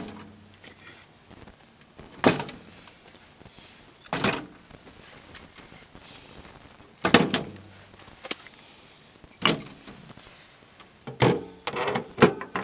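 A series of separate short scraping knocks, about seven of them, a second or two apart and clustered near the end: objects being moved and handled.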